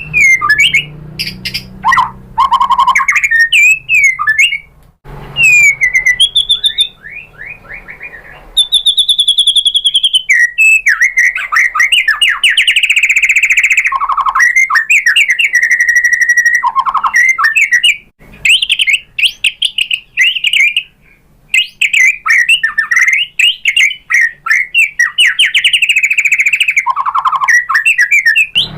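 White-rumped shama singing a long, varied song: loud, clear whistled phrases that slide up and down, mixed with fast trills and chattering runs, broken by a couple of brief pauses.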